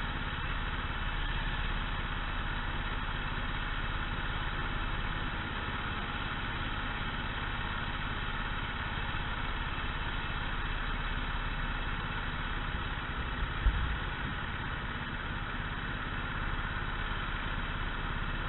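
Go-kart engines running steadily at idle, with no revving. A single short thump comes about three-quarters of the way through.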